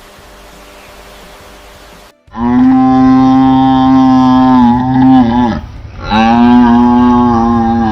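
Cow mooing: two long, loud, steady-pitched moos, the first starting about two seconds in after a faint background hiss, the second following about half a second after the first ends.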